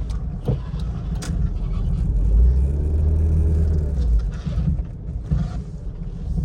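1999 Honda Civic's four-cylinder engine and road rumble on a drive, swelling louder in the middle as it pulls harder, with a couple of sharp clicks early on.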